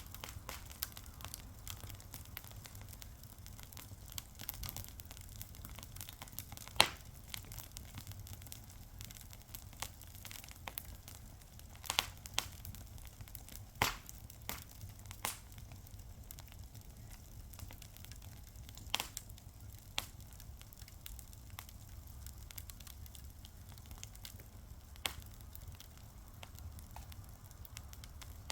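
Wood fire burning, with a low steady rumble and scattered sharp crackles and pops, a handful of them loud.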